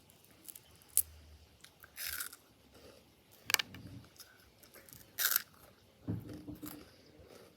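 A few separate crunches of hard, partly burnt food being bitten and chewed, with a sharp click about a second in.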